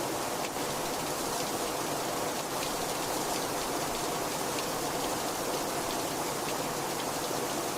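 Heavy rain falling steadily, a dense even hiss with faint ticks of individual drops striking a surface.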